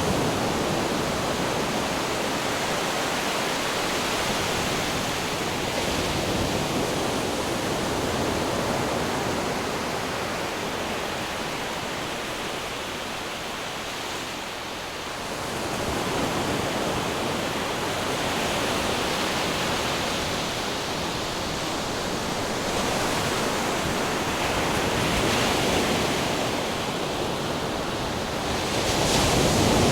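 Ocean waves and wind: a continuous rushing surf that swells and eases every few seconds, dipping about halfway through and surging again near the end.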